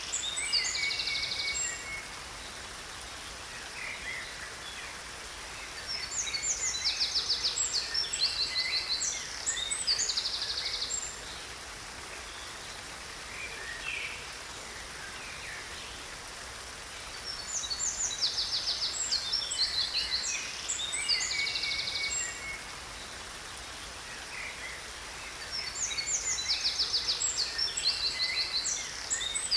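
Songbird singing in bouts of fast, high trills and chirps about every ten seconds, over a steady rush of falling water from a waterfall.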